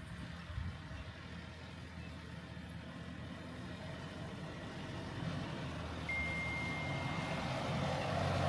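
A motor vehicle's engine running, growing steadily louder as it comes closer, with a short high steady beep about six seconds in.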